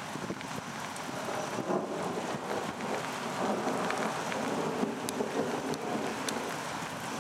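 Steady heavy rain falling in a thunderstorm, with scattered sharp ticks of drops hitting close to the microphone.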